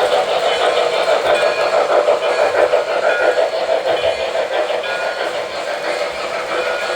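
O-gauge MTH RailKing model steam locomotives running steadily on a layout: a continuous rolling rumble of wheels on track with motor hum.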